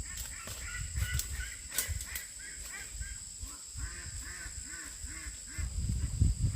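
Domestic fowl giving a run of short, repeated honking calls, about two or three a second, loudest in the middle stretch.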